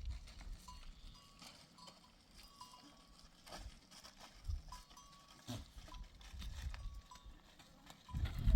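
Faint, irregular clinking of small bells on grazing livestock, a few light rings a second. A loud low rumble comes in near the end.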